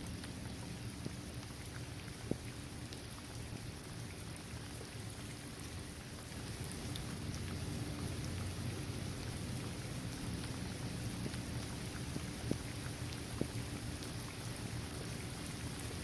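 Steady rain falling on a basketball court, trees and grass, with a few sharper drop strikes standing out, twice near the end. It grows slightly louder partway through.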